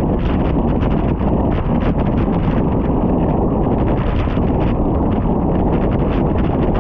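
Wind buffeting the microphone of a camera on a moving bicycle: a loud, steady low rumble, with many small ticks and crackles running through it.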